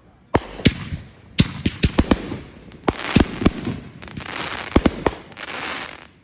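Fireworks going off in a rapid barrage of sharp bangs, a dozen or more, with a crackling fizz between them from about three seconds in.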